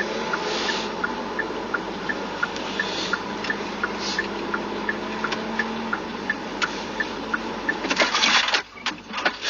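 Steady vehicle road noise with a short, high-pitched pip repeating about three times a second. A loud burst of noise comes near the end and stops abruptly.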